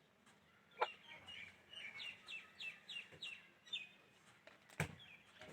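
Parrot calling: one sharp downward squawk, then a run of short, high, falling chirps at about three a second. A sharp knock is heard near the end.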